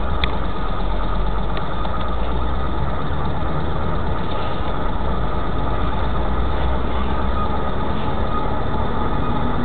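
Vehicle engine idling steadily with a knock in it, the fault the owner is showing.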